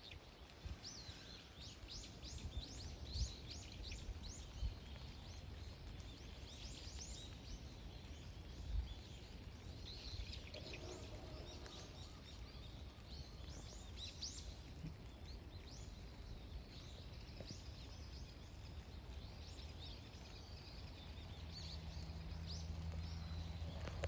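Small wild birds chirping, many short high calls overlapping each other, over a low rumble.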